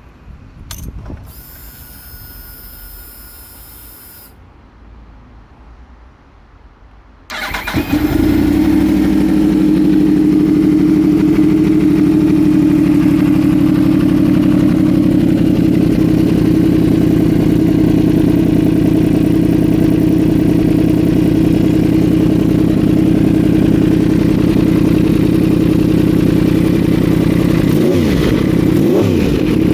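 Yamaha YZF-R1 inline-four fitted with a Pink Factory link pipe and an aftermarket slip-on silencer. After a brief whir, it is started about seven seconds in and idles steadily. A few quick throttle blips come near the end.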